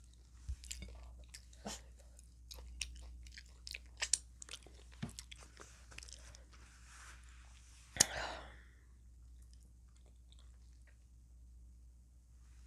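Close chewing and crunching of a crisp hard taco shell, a run of short crackles for about eight seconds, with one loud sharp crack about eight seconds in. Then it stops, leaving faint room tone.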